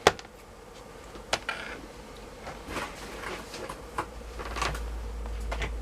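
A few sharp clicks and knocks of small hard objects being handled on a work table, with softer scraping between them and a low hum rising near the end.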